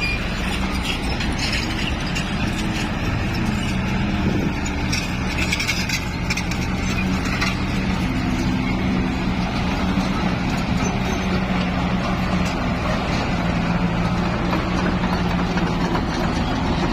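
Diesel dump truck engine running steadily, its low note holding level.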